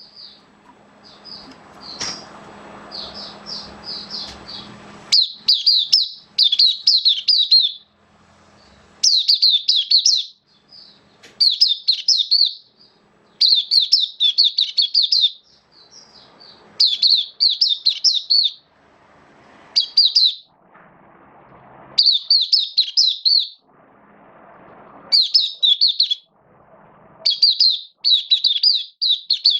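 White-eye singing: rapid, high-pitched warbling phrases, each about a second long, repeated over and over with short pauses between them.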